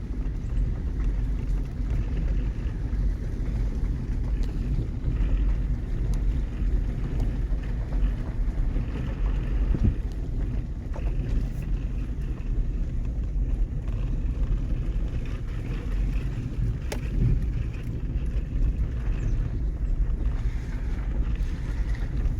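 Pickup truck driving slowly, heard from inside the cab: a steady low engine and road rumble, with a few brief knocks and rattles, about ten and seventeen seconds in.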